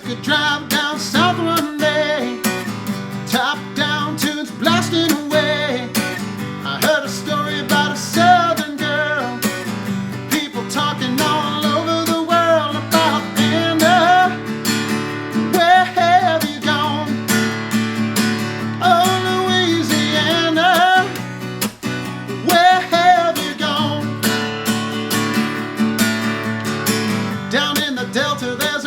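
Acoustic guitar strummed steadily, with a man singing phrases over it: a solo singer-songwriter's live performance of an original song.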